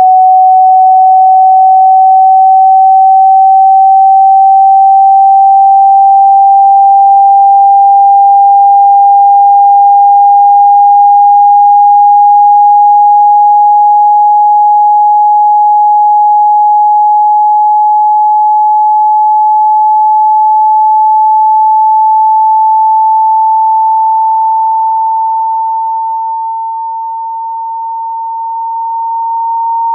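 A loud pure sine tone that rises slowly and steadily in pitch, with a brief dip in loudness near the end. It is a speaker-cleaning tone, played through a phone's speaker to shake water out of it.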